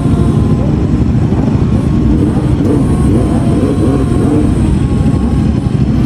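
Loud motorcycle engine noise, running steadily.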